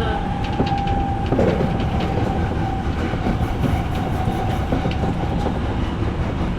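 Odakyu electric commuter train running on the rails, heard from the front of the train: a steady low rumble of wheels with light clicks over rail joints, and a steady high whine that fades out near the end.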